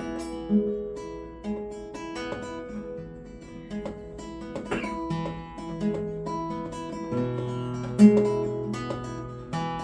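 Acoustic guitar being picked, single notes and chords ringing on and overlapping, with one louder note about eight seconds in.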